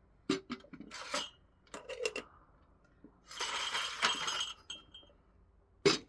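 Hard objects knocking and clinking against each other several times, then a scraping rush of noise lasting about a second, and a last sharp knock near the end.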